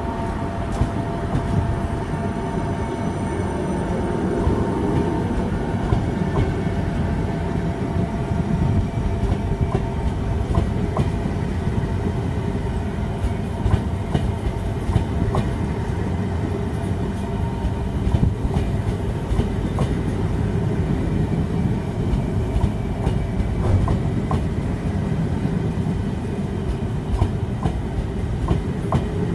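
Russian Railways passenger coaches rolling steadily past, a continuous low rumble with wheels clicking irregularly over rail joints.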